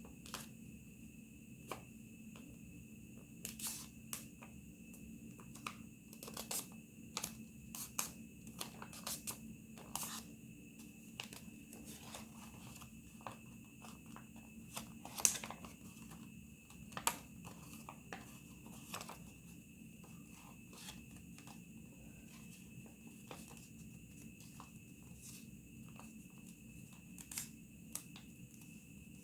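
A sheet of origami paper being folded and creased by hand, giving irregular crinkles and sharp crackles, with one louder crackle about halfway through. A faint steady hum runs underneath.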